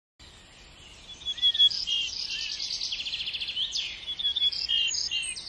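Small birds chirping and calling, with quick high notes and short rapid trills that begin about a second in.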